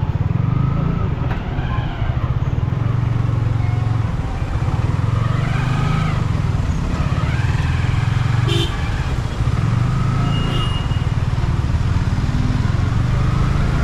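Motorcycle engine running steadily at low revs while creeping through slow, stop-and-go traffic, with voices and other vehicles around it.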